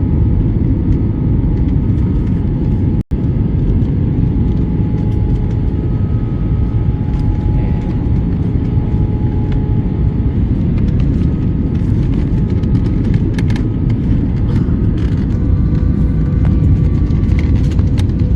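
Steady low rumble of engines and airflow inside an airliner cabin during descent, with a few faint steady tones above it. The sound drops out for an instant about three seconds in.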